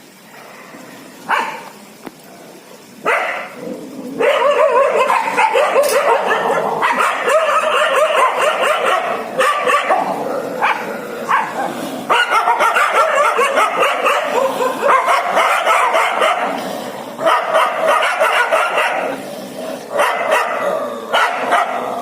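A dog barking and yipping, with a few single calls at first and then almost without pause from about four seconds in.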